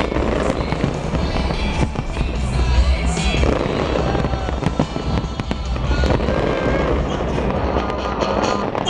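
Fireworks bursting and crackling over loud music with heavy bass, the display's soundtrack.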